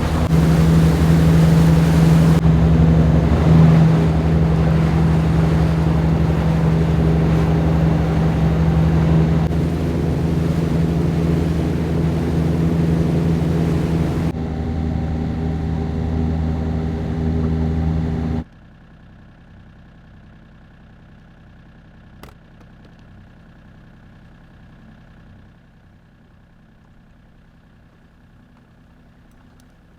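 Small boat's engine running steadily under way, with wind and water noise. It throttles back about 14 seconds in and cuts off abruptly about 18 seconds in. After that only a quiet background remains, with a single click a few seconds later.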